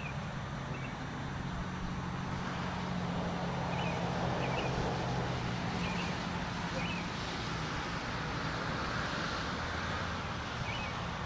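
A car going by, its noise swelling and fading twice over a steady low hum, with short high bird chirps every second or two.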